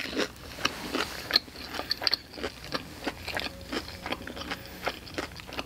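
Chewing a thick panko-crusted fried chicken strip: a quick, irregular series of crisp crunches from the breading, several a second.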